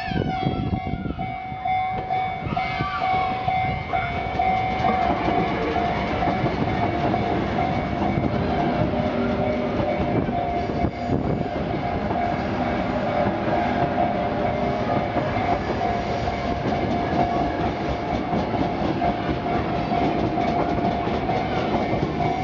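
Sotetsu Line train running through a level crossing, its wheels clattering on the rails, while a steady ringing tone, likely the crossing's warning bell, sounds throughout.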